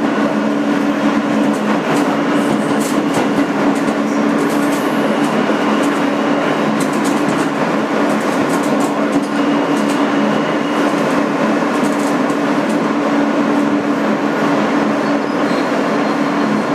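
Inside a 2008 Kawasaki R160B subway car: a steady hum of two low tones over a constant, even rush of noise, with faint scattered clicks.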